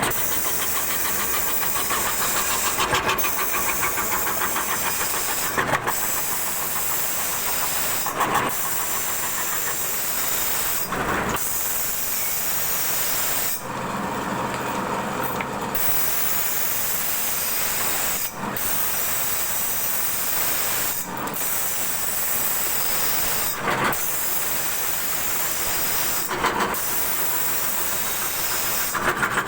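CNC wood carving router cutting wood: a steady high spindle whine and cutting hiss. Short dips come about every two and a half to three seconds, with a longer dip about halfway through.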